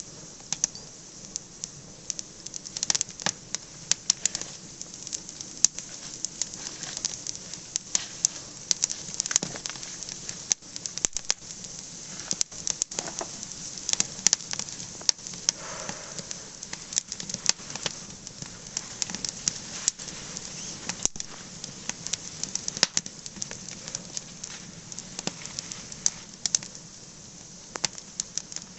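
Fire of dead branches and fallen leaves burning, with many irregular sharp pops and crackles over a steady hiss.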